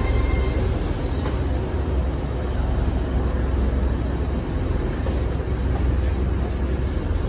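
A train runs with a steady, heavy low rumble, and a faint high whine fades out about a second in.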